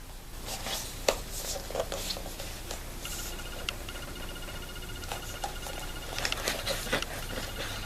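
Faint scattered clicks and rustles of small movements, with a few slightly louder ticks, over a faint steady high-pitched tone.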